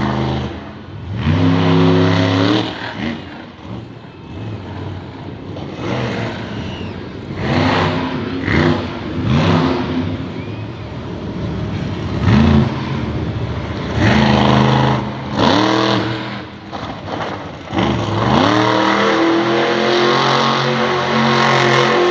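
Monster truck engine revving hard in repeated surges, pitch rising with each blip, then held at high revs for the last few seconds as the truck spins donuts on wet asphalt.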